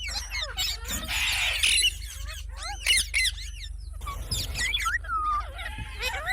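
Pet green parrot calling: a rapid string of short chirps and whistled rising-and-falling notes, with harsh squawks about a second in and again around three seconds.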